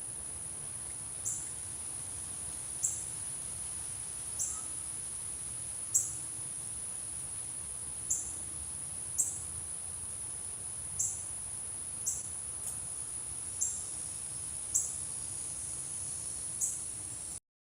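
A steady, high-pitched insect trill, crickets or katydids, with a short sharp chirp repeating about every second or so over it.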